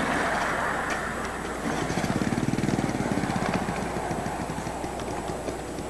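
A miniature ride-on railway train running by, with a fast, even pulsing beat about two seconds in that fades again after a couple of seconds, over a steady background hubbub.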